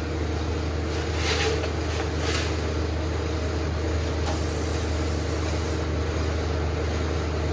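Welding machine running with a steady low hum while the arc is worked on a broken bolt. A short hiss sounds twice near the start, and a longer one comes about halfway through.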